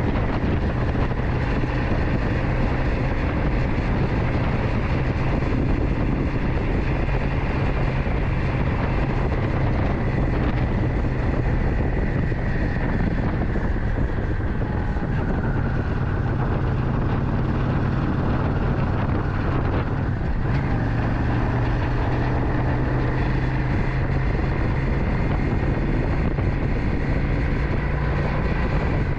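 Motorcycle engine running steadily while riding; its note steps up slightly about twenty seconds in.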